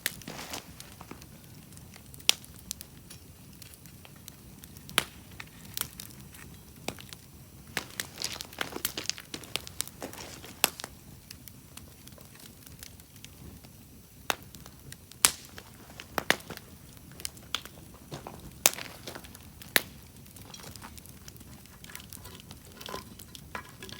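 Wood campfire crackling, with irregular sharp pops every second or so over a soft low hiss.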